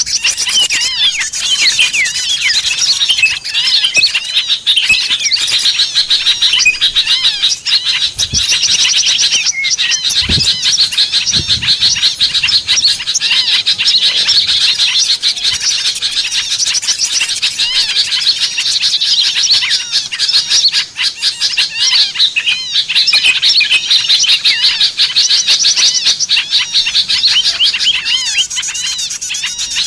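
Dense, ceaseless chatter of many small songbirds, high chirps and twitters overlapping with no pause: a bird-lure recording of agitated small birds, used to draw wild birds down.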